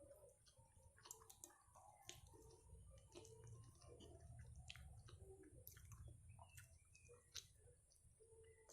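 Faint close-up chewing, with many irregular small wet clicks of the mouth.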